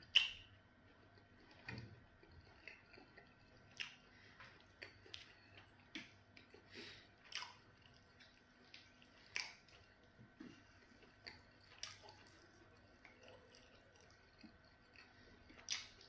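A person eating pounded yam fufu and okra soup by hand, chewing with wet lip smacks and mouth clicks, with soft squishes of fingers working the food on the plate. The sounds come as scattered short smacks, the loudest right at the start.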